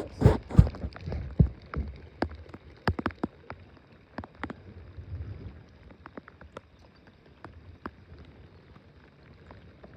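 Rain falling: scattered raindrops ticking sharply and irregularly, with a few louder knocks in the first second and a half.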